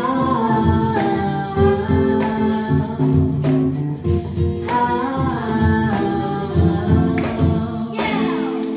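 Live band playing the end of a pop song with a singer's voice over the band and drums. About eight seconds in the drums stop and the band holds a final ringing chord.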